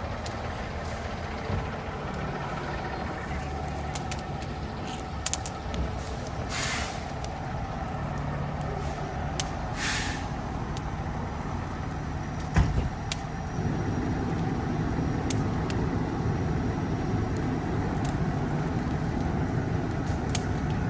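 Fire engine's diesel engine running steadily, with two short hisses of air about a third and halfway through, typical of air brakes. A thump comes a little past halfway, and soon after the engine grows louder.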